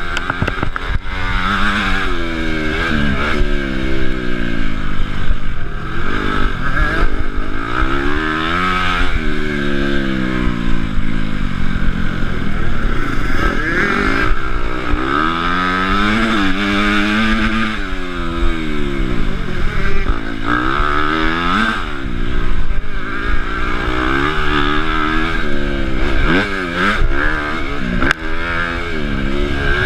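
Honda CRF250 single-cylinder four-stroke motocross bike engine ridden hard on track. Its revs rise and fall over and over, every few seconds.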